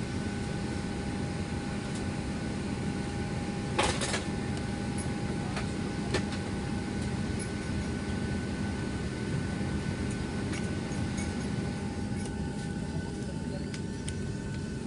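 Steady air-conditioning hum in a parked Boeing 737-700's cabin, carrying a few constant tones. A short clatter comes about four seconds in and a sharp knock about two seconds later.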